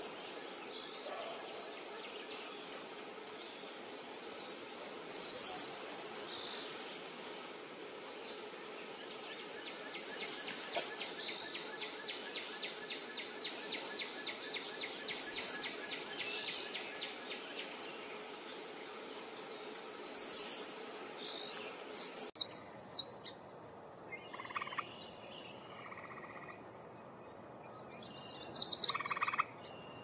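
Yellow warbler singing: a short, bright, high-pitched song phrase repeated about every five seconds, with a louder burst of song near the end. A faint, rapid, even pulsing runs under the song through the middle.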